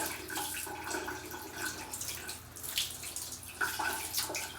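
Shower water running and splashing, a steady hiss of spray.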